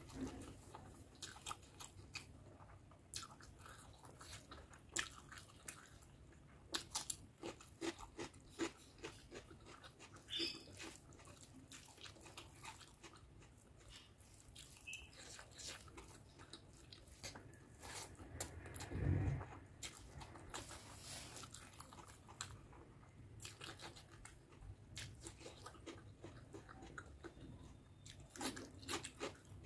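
Close-miked chewing and wet mouth sounds of a person eating rice and mutton curry by hand: many short smacking clicks, with one louder dull thud about two-thirds of the way through and crunching as a cucumber slice is bitten near the end.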